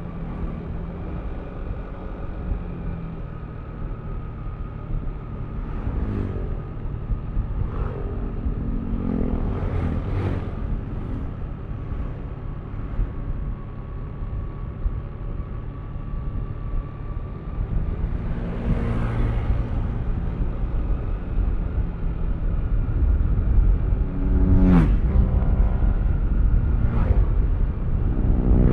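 Yamaha Aerox V3 155 cc single-cylinder scooter riding in traffic, a steady low engine and road rumble heard from the rider's seat. Several brief louder swells with gliding pitch come through, and the sound grows louder in the last few seconds.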